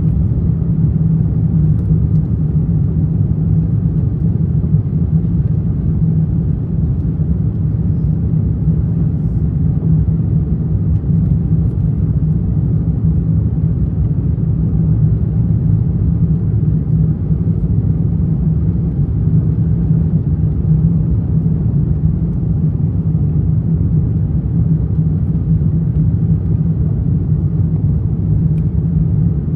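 Cabin noise inside an Airbus A350-900 airliner in flight: a steady low rumble of airflow and its Rolls-Royce Trent XWB engines, with no changes or sudden sounds.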